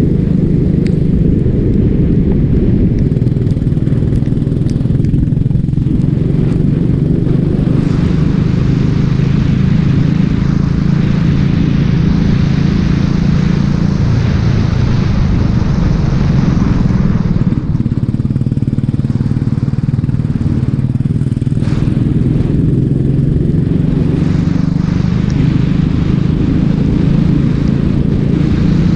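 Racing kart engine running hard and steady at speed, with a brief dip in level about two-thirds of the way through.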